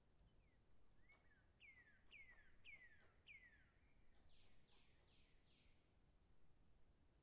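A faint bird song: a run of five clear falling whistles about half a second apart, then four quicker, higher and rougher falling notes.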